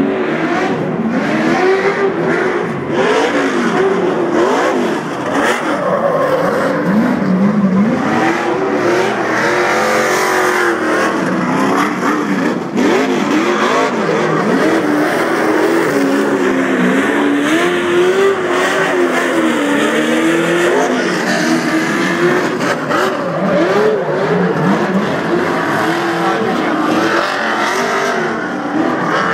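Truck engines revving hard and loudly, their pitch rising and falling over and over.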